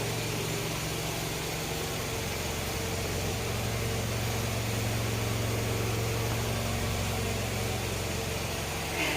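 Old Toyota Camry engine idling with a steady, even hum on a newly replaced water pump, running smoothly with no growl from the pump.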